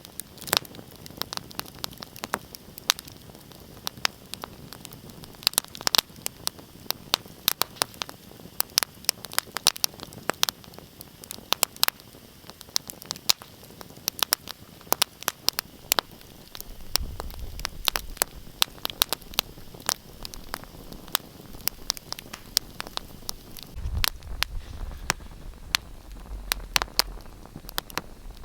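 Wood fire in a fireplace crackling: irregular sharp pops and snaps over a steady hiss. A low rumble comes in twice, about halfway through and again near the end.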